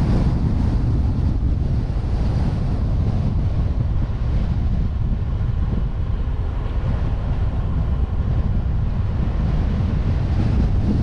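Wind rumbling steadily on the microphone of a suction-cup-mounted GoPro on a moving vehicle, over the vehicle's road and engine noise.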